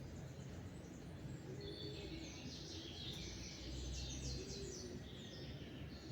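Small songbirds singing, a fast chattering song that is busiest from about a second and a half in until about five seconds in, over a steady low background rumble.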